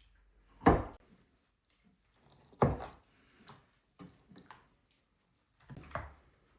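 Two loud sharp knocks about two seconds apart, followed by several fainter knocks and clatters.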